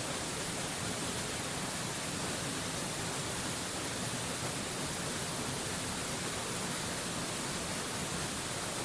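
A waterfall's steady rushing hiss, even and unchanging, with no separate splashes or other sounds standing out.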